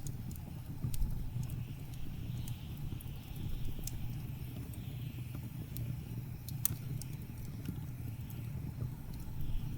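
Wood fire crackling with scattered sharp pops over a steady low rumble of blizzard wind. The louder pops come about four seconds in and near seven seconds.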